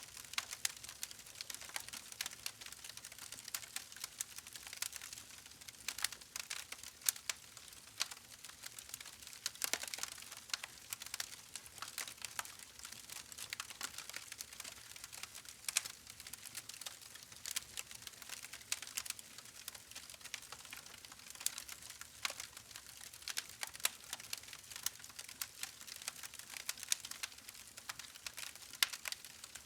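Campfire crackling: a dense, irregular stream of sharp pops and snaps from burning wood over a faint hiss.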